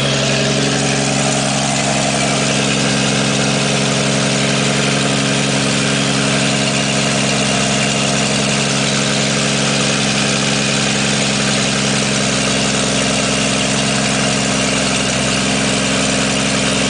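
1954 Chevrolet 235 inline-six engine running steadily and smoothly, its speed holding even throughout.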